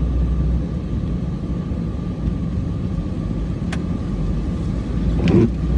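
Cummins diesel truck engine running steadily with a low rumble, with one sharp click a little under four seconds in.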